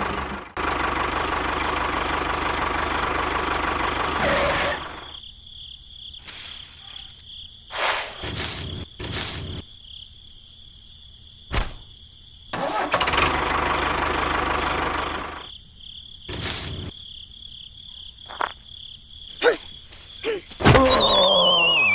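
A small engine running in two stretches of several seconds each, with sharp knocks and clicks in the quieter gaps between them, and a whistle sliding down in pitch near the end.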